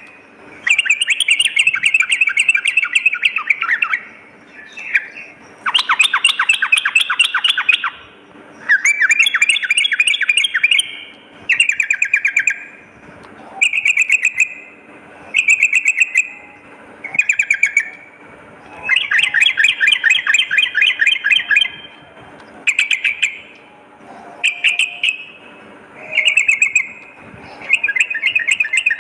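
Yellow-vented bulbul (trucukan) singing: a string of loud bubbly chattering phrases, each a quick run of notes lasting one to three seconds, repeated about a dozen times with short pauses between.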